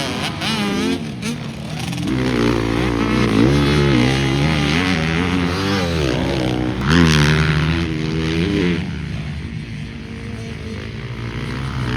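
Motocross bike engines revving, the pitch climbing and dropping again and again with throttle and gear changes. The loudest pass comes about seven seconds in.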